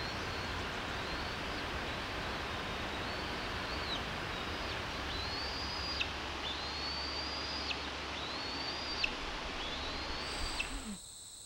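A bird calling a thin, high note over and over, about once a second, each note rising slightly, holding, then cutting off sharply, over a steady hiss of outdoor background. Near the end the background drops away abruptly.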